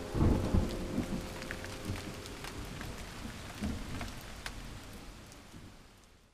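Thunder rumbling loudly in the first second over steady rain, the rain then fading out gradually to silence.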